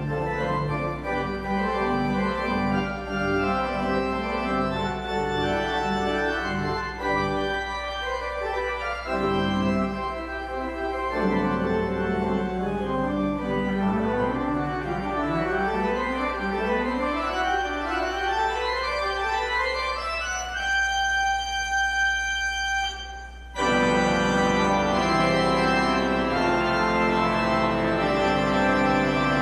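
Church organ playing sustained chords, with rising runs of notes about halfway through. It then holds a high chord, breaks off briefly, and comes back in with louder full chords near the end.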